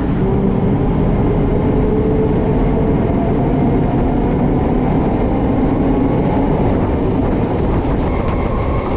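Suburban electric multiple-unit train running along the track, a steady rumble of wheels and coach noise heard from inside the coach at the open doorway.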